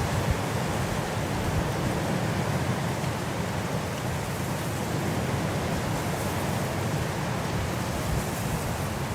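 Winter wind blowing steadily, a continuous rushing noise with most of its weight low, rising and easing only slightly.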